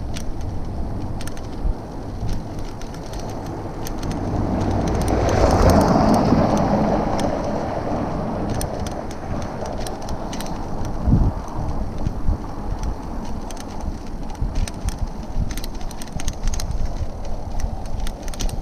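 Street noise heard from a moving bicycle: a steady rushing noise with scattered light clicks, swelling and fading between about four and eight seconds in, with a single thump about eleven seconds in.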